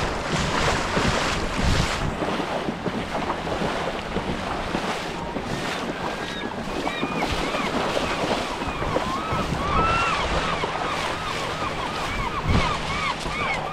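Surf washing on the beach under gusty wind buffeting the microphone. From about halfway in there is a rapid run of short rising-and-falling chirps, about two or three a second.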